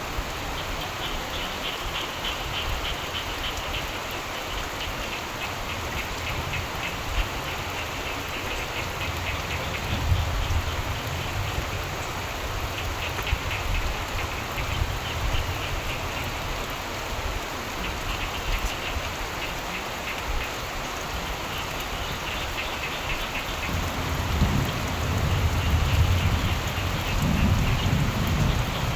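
Steady rain falling, with a chorus of frogs calling in bouts of fast, pulsing trills that come and go. Low rumbles of thunder swell about a third of the way in and again near the end.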